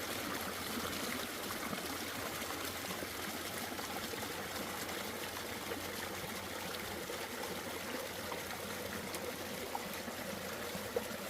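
Running water of a small stream, a steady rushing trickle without pauses.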